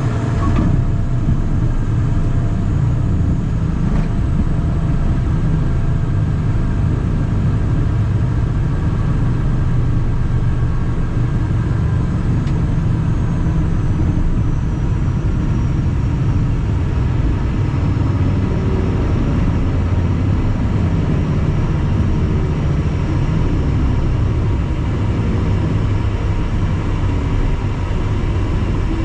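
Cabin noise of a Cessna Citation Mustang light jet: a loud, steady rumble of airflow and its twin Pratt & Whitney PW615F turbofans, with a faint steady whine above it.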